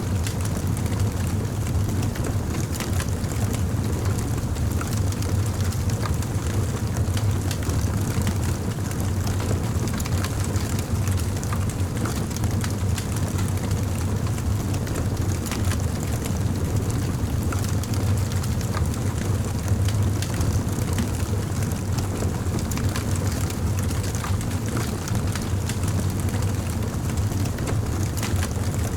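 Campfire burning: a steady low rumble of the flames with frequent small crackles and pops from the burning wood.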